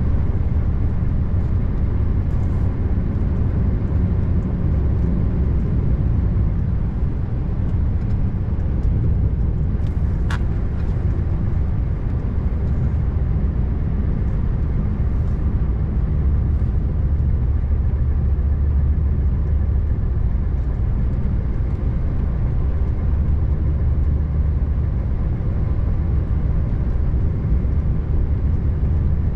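Scania R590 V8 diesel truck heard from inside the cab: a steady low engine drone with road noise. A brief click about ten seconds in.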